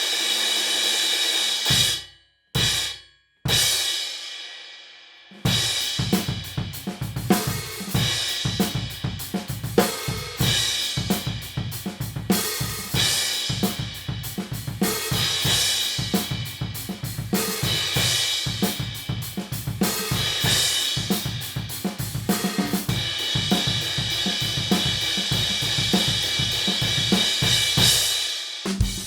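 Turkish Ad Astra Series 18" crash cymbal ringing, then struck and choked three times in quick succession, each hit cut off short. About five seconds in, a full drum kit groove begins with kick and snare, and the crash washes on top of it.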